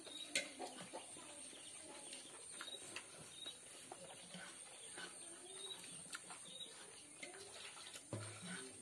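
Close-up chewing and wet mouth clicks of a person eating rice and boiled chicken by hand, scattered short clicks throughout, with faint bird chirps in the background.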